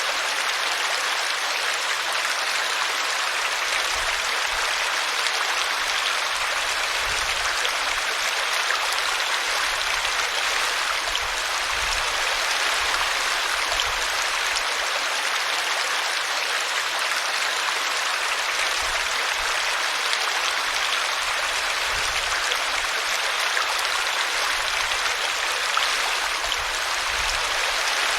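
Small brook splashing steadily as it spills over a tree root.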